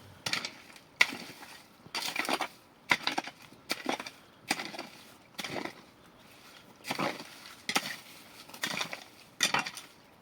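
Dry wood or brushwood snapping and cracking in irregular bursts, about a dozen sharp cracks and short crunches.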